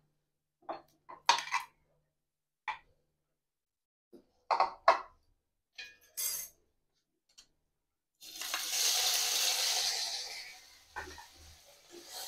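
Short clinks and scrapes of a metal spatula against the kadai and bowl, then about eight seconds in small shrimp hit the hot oil in the kadai and sizzle loudly, the sizzle slowly dying down as they are stirred.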